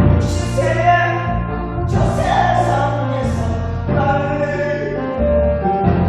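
A song being sung over a recorded musical accompaniment, with steady bass notes under the melody.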